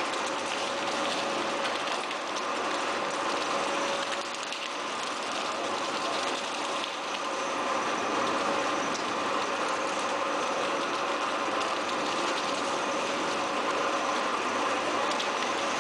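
Tire recycling machinery running steadily: a continuous mechanical din with a few steady humming tones held throughout.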